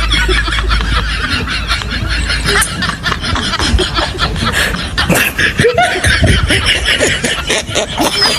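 A person laughing hard in rapid, breathy snickers.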